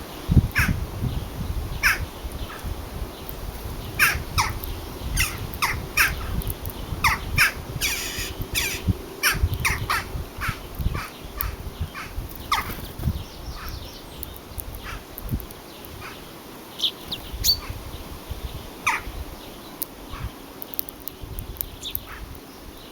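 Birds calling: many short, sharp calls, coming thickly over the first half and more sparsely later, over a low rumble.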